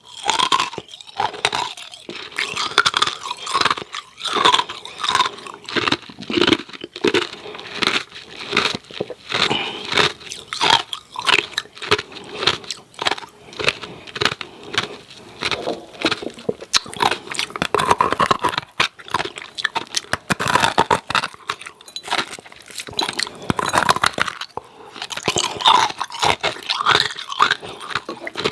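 Close-miked crunching and chewing of hard ice cubes with freezer frost, loud, dense, irregular cracks several times a second as the ice is bitten and ground between the teeth.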